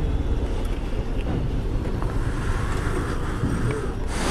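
Motorcycle engine running at low speed with a steady low rumble. Near the end comes a loud rush of noise.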